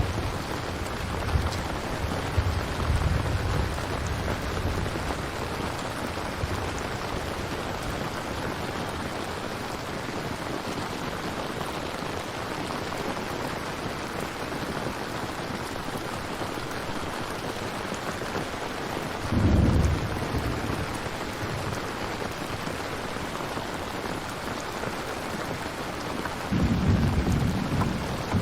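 Steady rain with thunder: low rumbles in the first few seconds, a sharp loud thunderclap about twenty seconds in, and another rumble near the end.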